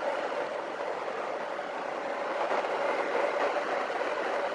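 Motorhome driving slowly, a steady drone of engine and road noise heard from inside the cab.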